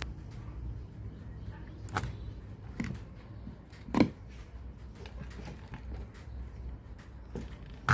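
Low steady hum with a few sharp clicks and knocks, the loudest about four seconds in and another near the end.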